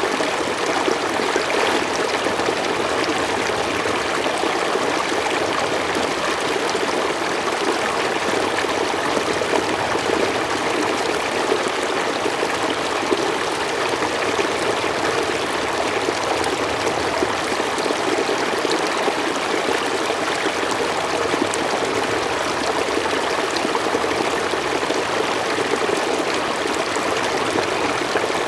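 Mountain stream flowing steadily over rocks, an even rushing and babbling of water with no change.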